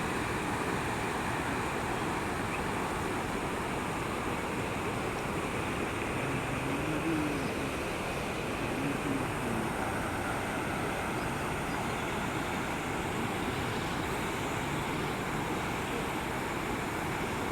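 Steady rushing of a river in flood pouring over a bridge, an even noise with no let-up.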